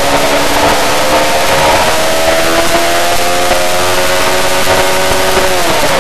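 Yamaha R6's inline-four engine running hard at high revs, its note climbing steadily, then dipping sharply for a moment near the end. A heavy rush of wind on the microphone runs under it.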